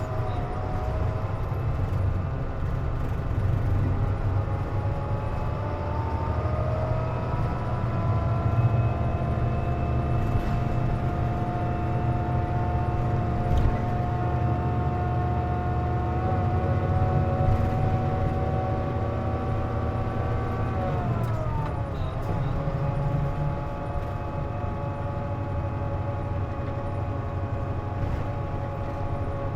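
Interior sound of a KC-JP250NTN route bus under way: the engine and drivetrain give a whine made of several tones that rises as the bus picks up speed, holds steady, then falls away about two thirds of the way through as it slows, over a constant low rumble. The air conditioning is running, which the uploader says gives this bus its unusual noise.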